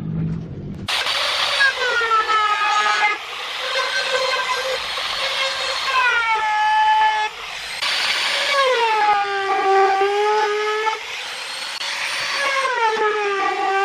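Electric woodworking power tool cutting wood in repeated passes. It makes a high whine over a hiss, and the pitch drops as the cutter bites into the wood, then recovers between passes.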